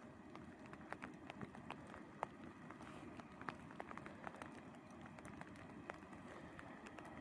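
Faint raindrops ticking irregularly over a low, steady outdoor rumble.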